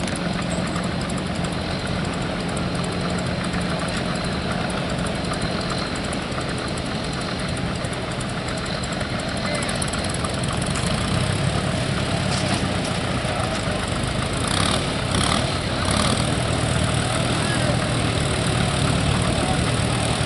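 Tractor engine running steadily, getting louder about halfway through, with a few short rasps from the engine near the end.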